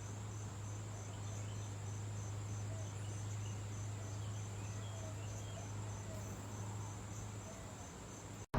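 Insects trilling steadily, a high, evenly pulsing chirr, over a steady low hum. A few faint short chirps sound in the background, and everything cuts off abruptly near the end.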